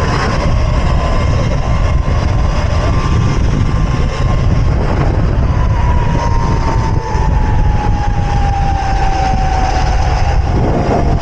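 Wind buffeting the microphone while riding an electric mini bike, with the motor's thin whine holding steady, then sliding slowly down in pitch from about halfway through as the bike slows.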